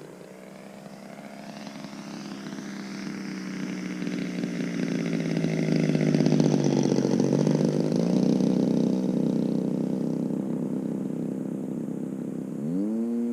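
Single-cylinder two-stroke DLE 35RA gas engine of an RC aerobatic plane in flight, its freshly rebuilt top end running smoothly. The engine grows louder as the plane passes close, then fades as it pulls away. Near the end the throttle opens and the pitch sweeps sharply up.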